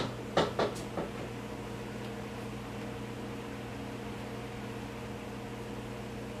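Steady whir and hum of running fans: a Casablanca Panama II ceiling fan in demo mode at speed 3, mixed with a kitchen exhaust fan. A few brief sounds come in the first second.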